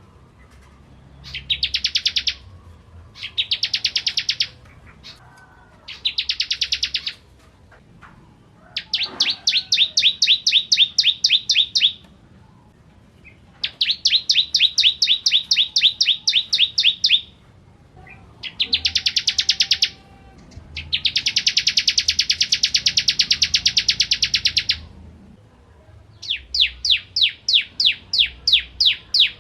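Bar-winged prinia (ciblek) singing in the clear 'kristal' style: about eight bursts of fast, high repeated notes, each lasting one to four seconds, with short pauses between them.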